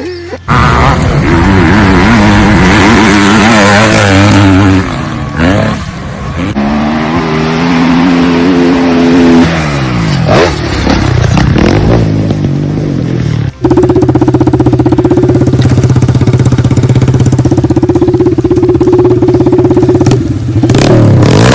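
Dirt bike engines revving, the pitch repeatedly rising and falling. About 13 seconds in there is an abrupt change to a steady, high-revving engine drone.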